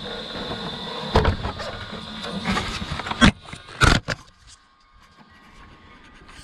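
Electric motor of a Losi RZR Pro R RC side-by-side whining steadily while the model runs, with several sharp knocks. The sound drops away about four seconds in.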